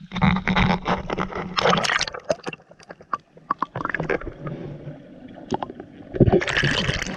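Water splashing and sloshing in a swimming pool, in irregular bursts with sharp slaps, loudest in the first two seconds and again about six seconds in.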